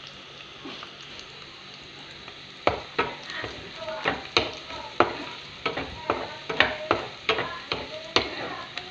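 Sliced onions and garlic sizzling in a frying pan while a wooden spoon stirs them; from about three seconds in the spoon knocks and scrapes against the pan, about two sharp knocks a second.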